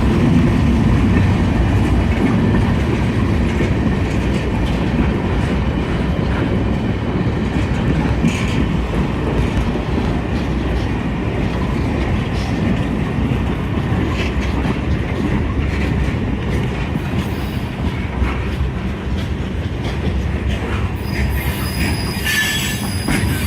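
Freight train of mixed cars and double-stack container cars rolling past, with a steady rumble and wheel clatter. Near the end the wheels give a few brief high-pitched squeals.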